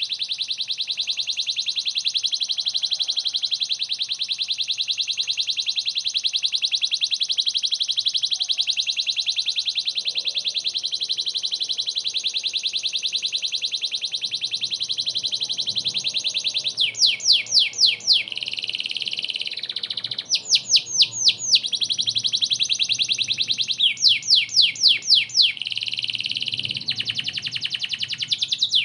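Domestic canary singing without pause: a long, fast, rolling trill for about the first sixteen seconds, then phrases of loud, rapidly repeated sweeping notes alternating with shorter trills.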